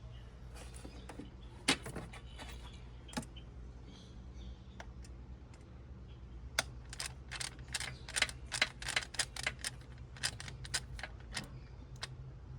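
Irregular clicks and light metallic clinks of hand tools working on parts, a few at first and then a quick, uneven run of them about halfway through, over a low steady hum.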